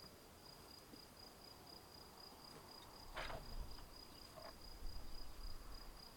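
Cricket chirring in a steady, high, fast trill. A brief rustle comes a little past halfway, with low rumbling after it.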